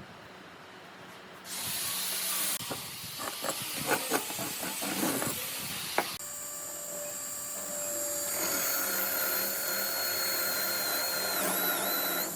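Power tool working wood: a loud hiss with scattered knocks, then a motor whine with steady high tones that dips briefly under load near the end.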